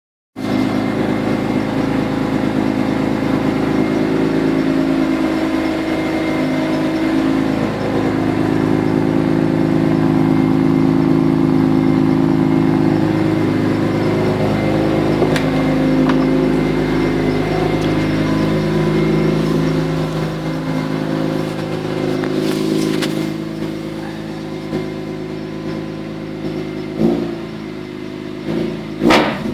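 BMW S50B32 3.2-litre straight-six in an E30, running steadily at idle through a straight-through exhaust with no mufflers. It gets a little quieter in the last third, and a couple of short knocks sound near the end.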